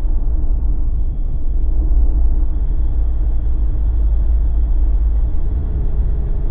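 Steady low rumble of a Jeep Wrangler's road and engine noise while driving, heard from inside the cabin.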